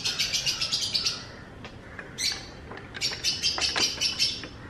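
A small bird chattering in rapid, high, repeated chirps, in two bouts: one in the first second and another from about three to four and a half seconds in. A few light clicks fall between the bouts.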